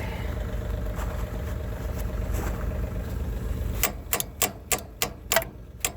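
Tractor engine rumbling, then cutting out about four seconds in. Right after, a series of sharp, evenly spaced ticks follows, about three a second.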